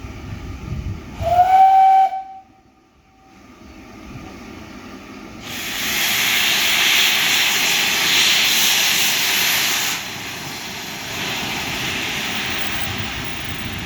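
Steam locomotive Beachy Head 32424, a Brighton Atlantic, gives one short whistle that rises into a steady note about a second in. A few seconds later it starts a loud release of hissing steam, which eases to a softer steady hiss near the end.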